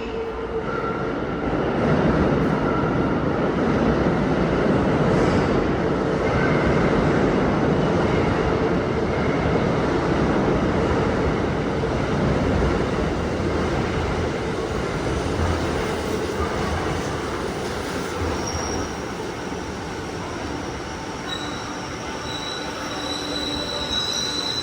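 Sanyo Electric Railway 3000 series electric train pulling into an underground station, a loud rumble of wheels on rail that swells and then eases as it slows. High-pitched wheel and brake squeals set in over the last several seconds as it draws to a stop.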